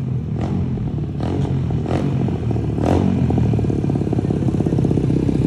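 150cc single-cylinder four-stroke dirt bike, fitted with a 24mm Nibbi racing carburetor and a performance exhaust, running and getting louder as it rides up. A few short knocks sound over it in the first three seconds.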